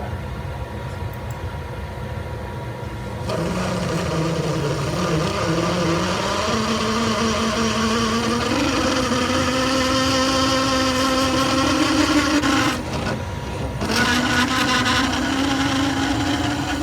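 Metal lathe drilling out a steel bore with a large drill bit, enlarging the hole from 1 inch toward 1-1/8 inch. The cut starts about three seconds in with a chattering, whining tone that rises slightly in pitch and then holds. It breaks off for about a second near the end and then resumes.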